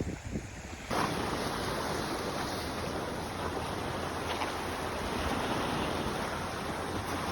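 Sea surf washing onto the beach, a steady rushing noise that jumps suddenly louder about a second in. Low buffeting thumps, typical of wind on the microphone, come before the jump.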